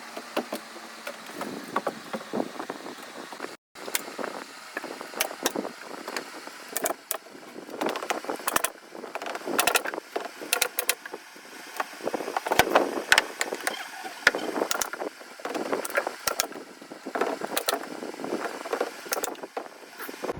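Irregular sharp clicks and knocks, many in quick succession, over a steady hiss.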